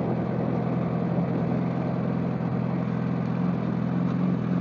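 Motorcycle engine running at a steady pitch, with even road and wind noise over it.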